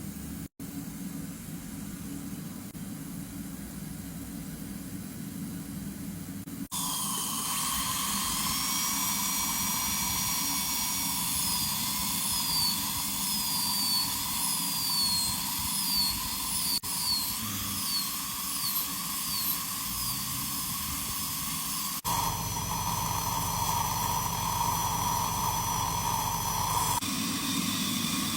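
Dental high-speed drill whining over a steady hiss of water spray and suction, its pitch dipping briefly again and again as it bites into the tooth. The first few seconds hold only the hiss, and the sound changes abruptly several times.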